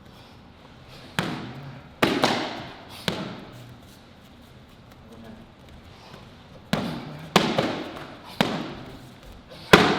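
Strikes landing on handheld karate kicking paddles: seven sharp slaps with a short echo, three about a second apart, then a pause, then four more in quicker succession.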